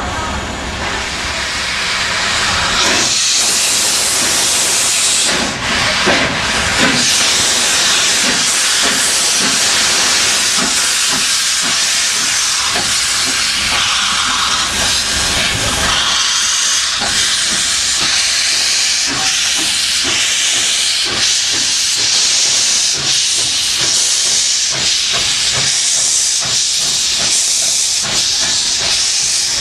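Steam locomotive L-0022 venting steam: a loud, steady hiss that swells about three seconds in.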